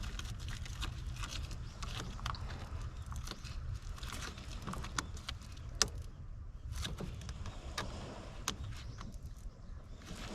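Light metallic clicks and clinks, irregular and scattered, over a steady low rumble.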